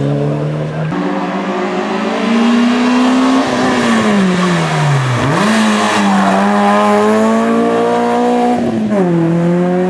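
Rally car engine at racing revs, climbing and dropping through gear changes: sudden pitch drops about a second in and near the end, and a long falling run in the middle before it holds steady.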